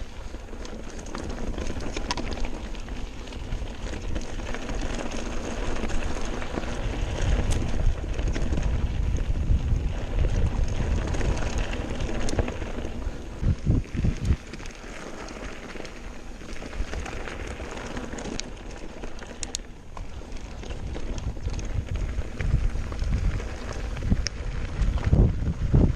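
Mountain bike descending a rough trail: tyres rumbling and crunching over rocks and gravel, the bike rattling, with heavy wind noise on the microphone and a few harder thumps from bumps.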